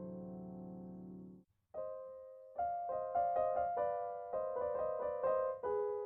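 Piano music: a held chord fades and cuts off about a second and a half in, and after a short gap a single note sounds, followed by a steady run of notes, about three or four a second.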